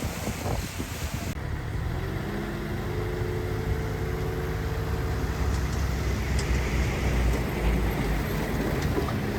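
Diesel engine of heavy earthmoving machinery running steadily under load, its pitch shifting slightly. Wind noise on the microphone in the first second or so.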